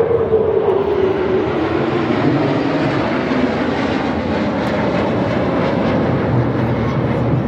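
Display aircraft flying past overhead: loud, steady engine noise whose pitch falls over the first few seconds as the plane passes.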